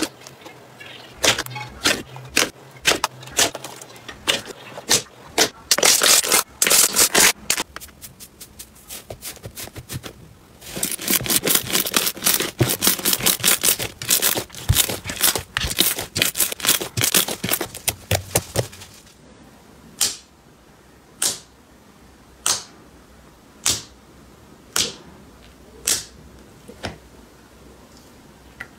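Slime being pressed and worked by hand, giving crackling clicks and pops: dense runs of crackling for most of the time, then, from about two-thirds in, single sharp pops roughly once a second.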